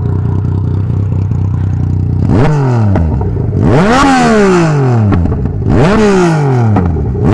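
Yamaha MT-09's three-cylinder engine running through an exhaust with its end can removed: a steady, loud idle, then, about two seconds in, three quick throttle blips, each rising sharply and sinking back over a second or so. The unmuffled exhaust pops as the revs drop.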